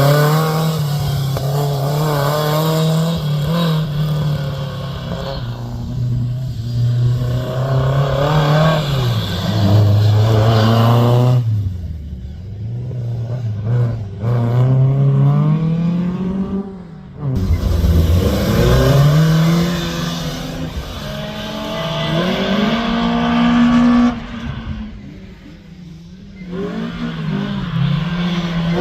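Rally car engine driven hard: it revs up, changes gear and lifts off again and again, the pitch climbing and falling. It eases off briefly about twelve and seventeen seconds in, and goes quieter for a couple of seconds near the end before picking up again.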